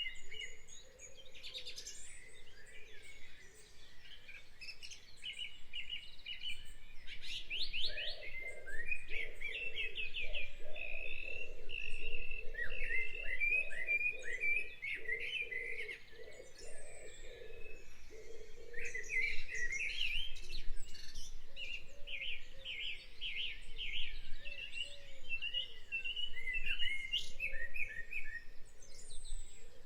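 Birds singing, with many short chirps and rapid trills repeating throughout.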